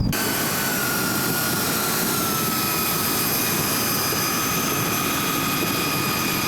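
Engines of a large radio-controlled jet model running steadily: an even rushing noise with several high whines, one of them sliding slowly lower.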